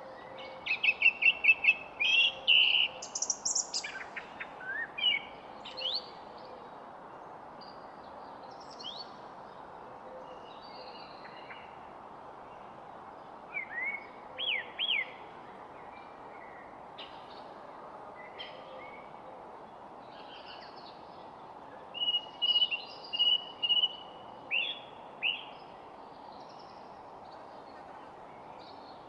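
Several songbirds chirping and whistling in short bursts: a rapid run of chirps at the start, then scattered sliding notes, with further clusters around the middle and after about 22 seconds, over a steady background hiss.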